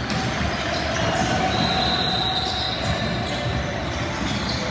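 Sounds of a basketball game in a gym: the ball bouncing on the court over a steady bed of crowd and court noise. A steady high-pitched tone starts about a second and a half in and lasts just over a second.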